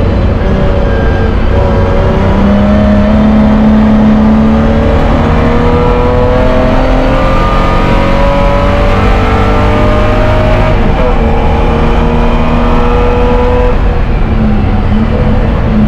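BMW E30 race car engine heard from inside the stripped cabin, pulling hard at full throttle: the note rises steadily, drops sharply at an upshift about eleven seconds in, climbs again, then falls away as the throttle is lifted near the end.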